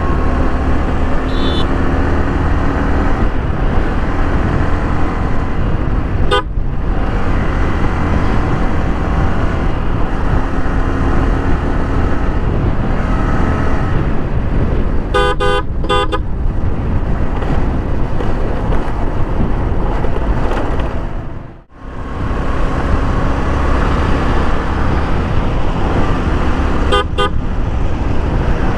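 Steady wind rush and road noise from a moving motorcycle ride, with vehicle horns honking: a brief toot, then a run of short repeated blasts around the middle, and another toot near the end.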